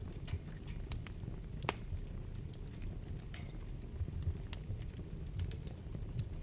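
Wood fire burning in a fireplace: a low steady rumble of flames with irregular sharp pops and crackles, one louder pop a little under two seconds in.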